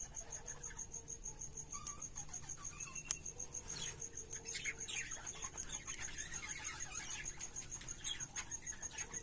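Budgies chirping and chattering in short warbled notes from about three and a half seconds in, over a steady, evenly pulsing high trill; one sharp click about three seconds in.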